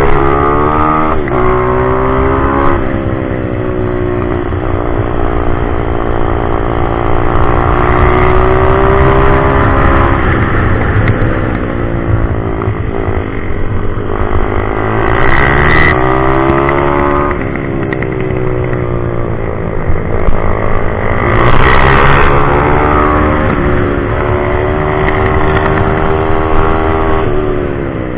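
Single-cylinder pit bike engine at high revs, its pitch climbing and falling away several times as the rider accelerates and backs off.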